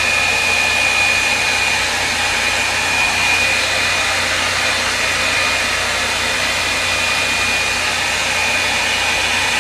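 Revlon One-Step hot-air brush dryer running steadily on its low setting, a constant rush of air with a faint high whine from the motor.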